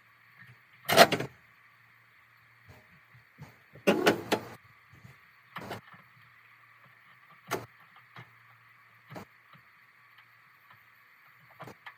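Several irregular knocks and clunks, the loudest about a second in and a cluster around four seconds in, over a steady hum.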